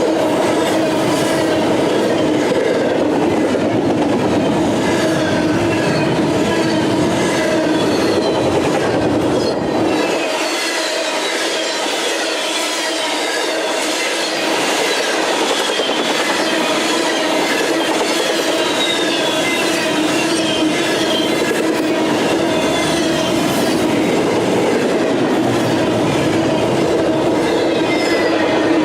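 Railroad cars rolling past on the rails: a steady clatter of wheels with a continuous high-pitched wheel squeal. The low rumble drops away about ten seconds in.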